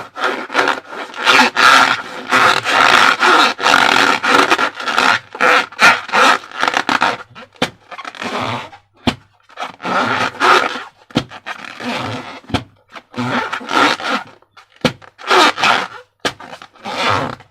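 Slime being squeezed and worked by hand, giving wet, sticky squelches in irregular bursts with short pauses and scattered sharp clicks.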